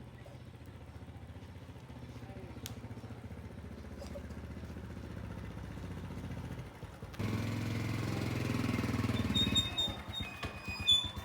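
A small engine running steadily, cutting abruptly to a louder engine about seven seconds in, with scattered clicks and short high tones near the end.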